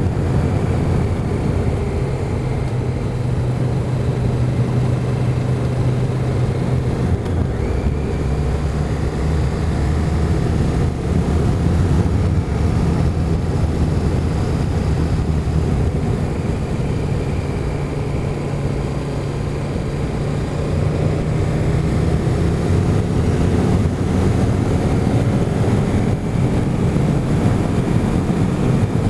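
Motorcycle engine running under way with wind rushing past, its engine note shifting a few times as the speed changes.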